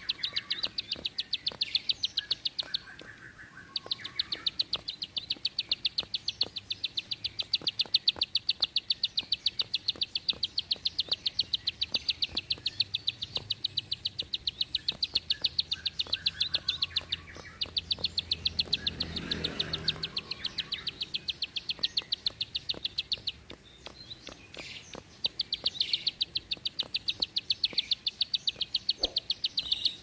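Prinia (ciblek) singing a long, fast, even run of sharp clicking notes, about five a second, in several long bursts broken by short pauses. A low rumble rises and fades about two-thirds of the way through.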